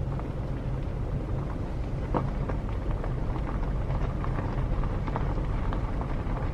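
Car driving along the road, a steady low rumble of engine and tyres with scattered light ticks.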